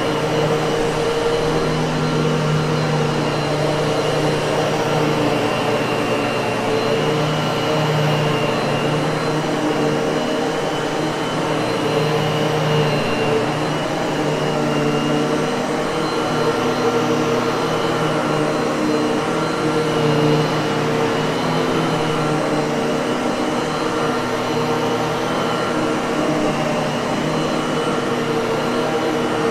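Miele vacuum cleaner motor running steadily, a constant drone with a rushing hiss of air and a few held tones.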